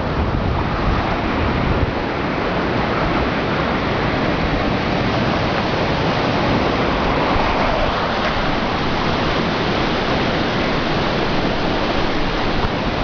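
Typhoon-swollen river water rushing through and over a fish weir (yana), a steady roar of floodwater.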